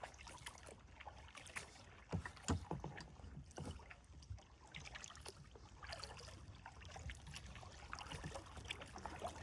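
Kayak paddling on calm water: soft paddle splashes and drips, with scattered light clicks and knocks.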